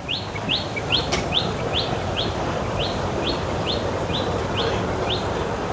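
A bird calling a steady series of short rising notes, about two a second, stopping shortly before the end, over a steady background hum of outdoor noise.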